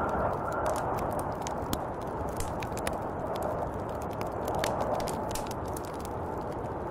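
Snowstorm wind blowing steadily with gentle swells, with many scattered light ticks and crackles over it.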